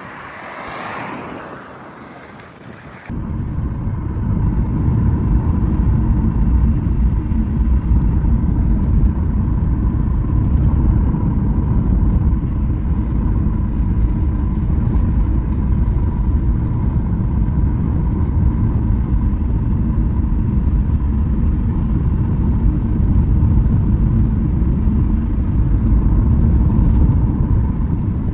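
Steady low rumble of a car driving, with engine and road noise, starting abruptly about three seconds in.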